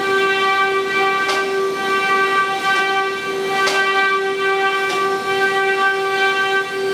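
Spindles of a 12-head multi-spindle CNC wood router running at high speed with a steady high-pitched whine. Brief noisy bursts come roughly every second and a bit.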